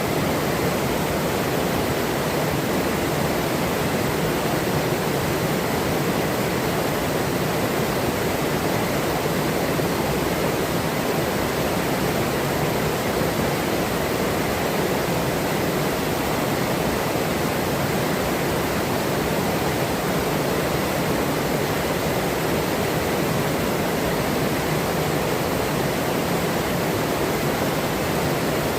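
River water rushing steadily over rocks, an even continuous rush with no breaks.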